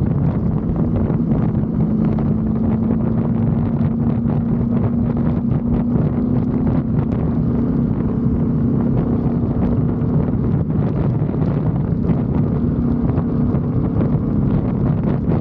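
BMW F850 GS motorcycle's parallel-twin engine running at a steady, almost constant engine speed, as when cruising, with wind buffeting the microphone.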